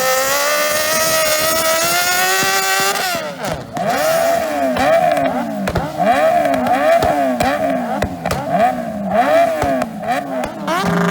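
MotoGP racing motorcycles at full throttle. One engine's note climbs steadily for about three seconds. After that come quick, repeated rises and falls in pitch as the bikes shift and go by.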